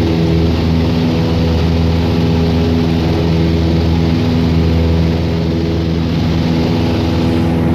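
Light aircraft's piston engine and propeller running in flight, a steady low drone that holds an even pitch.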